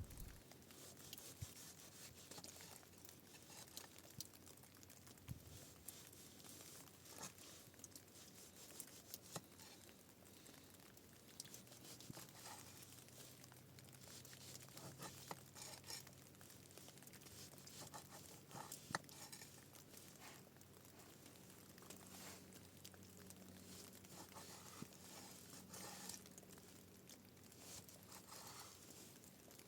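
Near silence with faint, scattered crackles and ticks.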